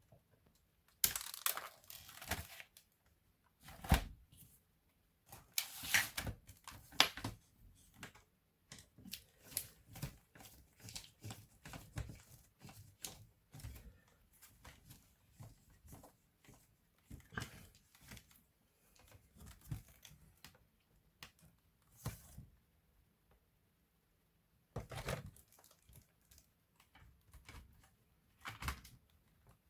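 Hands working on a laptop's plastic casing and parts: irregular clicks, scrapes and crackling, with a few louder crackly handling noises among quieter ticks.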